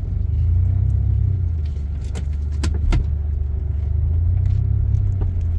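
Strong gusts of wind buffeting a car, heard from inside: a loud deep rumble that swells and eases in waves, with a few sharp knocks and rattles about two to three seconds in.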